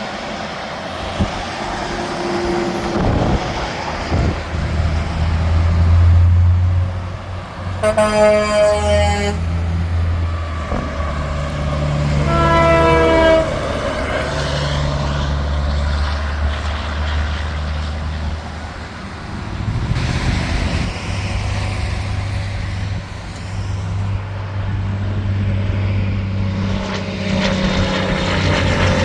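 Tractor-trailers passing on an interstate, their diesel engines droning low and steady, with two blasts of a truck air horn about 8 and 12 seconds in; the second horn drops in pitch as the truck goes by.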